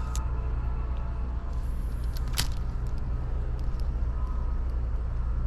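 Steady low outdoor rumble, with a single sharp click about two and a half seconds in.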